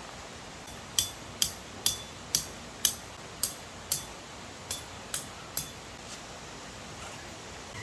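About ten sharp metallic taps, roughly two a second, each with a short bright ring, the last few softer, over a steady hiss.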